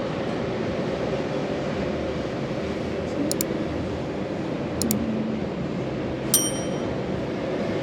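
Steady background noise with a constant low hum, two light clicks a few seconds in, and a single sharp metallic ding near the end that rings briefly.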